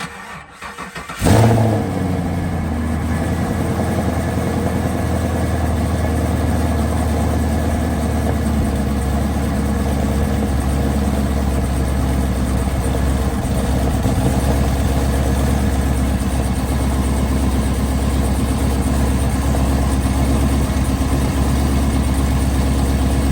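Chevrolet Camaro SS 6.2-litre V8 started after about a second of starter cranking. It catches with a sharp rev flare, then settles into a steady idle. This is the first start on fresh spark plugs and wires fitted to cure a misfire, and the owner calls it healthy-sounding.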